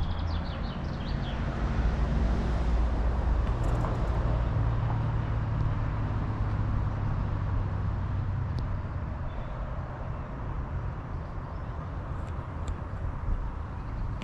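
Heavy engine running steadily, its low note rising a little a few seconds in, under a steady wash of wind-like noise. A few short high chirps come right at the start.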